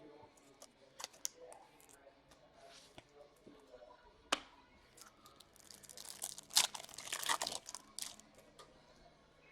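Trading-card pack wrapper being torn open and crinkled, a dense run of crackling from about six seconds in to about eight seconds, after a few scattered clicks and taps of cards being handled.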